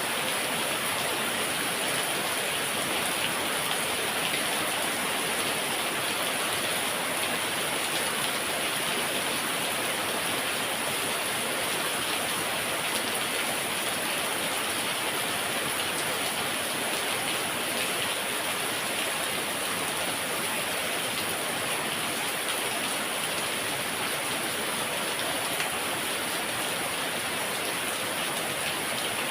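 Heavy rain falling steadily, a dense, even hiss of rain on surfaces with no let-up or separate hits.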